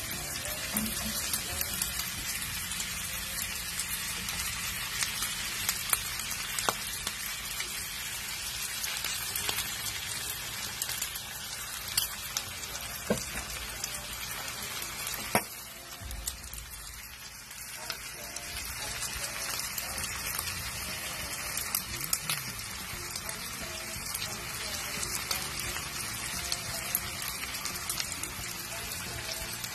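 Diced pork sisig sizzling and frying in a hot skillet: a steady hiss with scattered crackles and pops, dipping briefly about halfway through.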